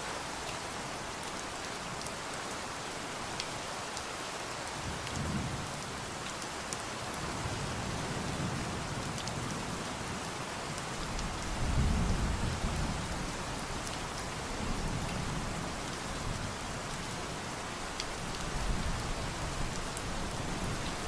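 Steady rain falling, with low rolls of thunder swelling and fading under it: a first rumble about five seconds in, the loudest about halfway through, and another near the end.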